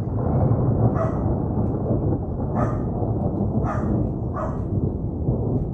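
A dog barking four times, at uneven gaps of about a second, over the steady deep rumble and hiss of a thunderstorm.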